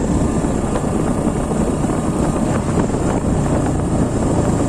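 Sports motorcycle engine running steadily in low gear while riding over a broken, potholed road.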